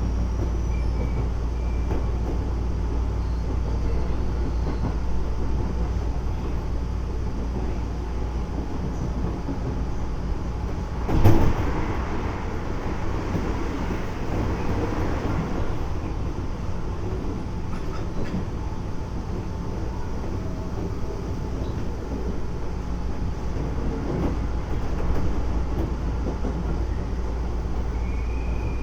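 Keisei 3400 series electric train running at speed, heard from inside the car: a steady rumble of motors and wheels on rail. About eleven seconds in there is one sharp knock, then a few seconds of louder rushing noise.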